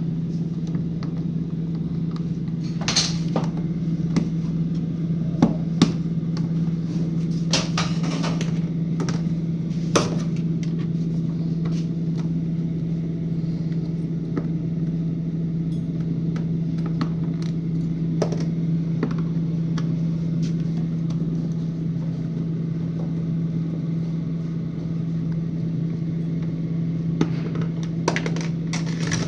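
Refrigeration vacuum pump running with a steady low hum while it evacuates the refrigerator's sealed system ahead of gas charging. A few light clicks and knocks sound over it.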